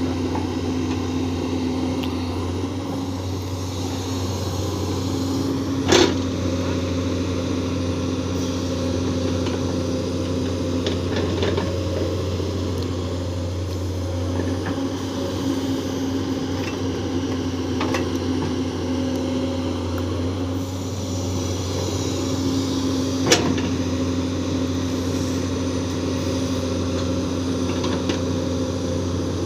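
Komatsu PC210 excavator's diesel engine running steadily with a low, even drone, and two sharp knocks, one about six seconds in and one about 23 seconds in.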